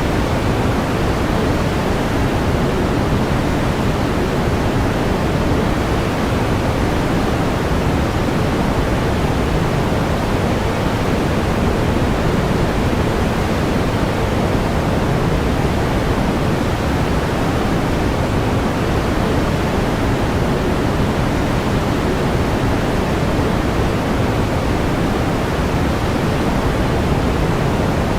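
Steady pink noise: an even, unchanging hiss, strongest in the low end.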